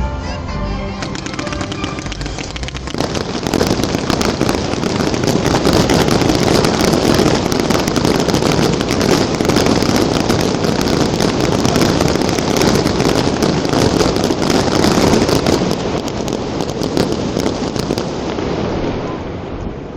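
Fireworks going off in a dense, continuous barrage of crackling bursts, starting about three seconds in and easing off near the end. Music is heard underneath at the start.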